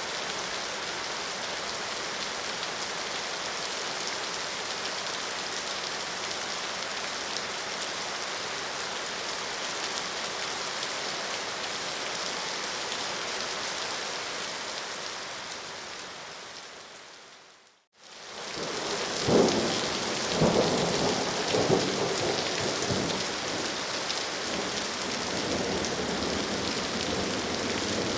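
Steady rain falling, fading out about two-thirds of the way through; another rain recording fades straight back in, with several loud rolls of thunder soon after.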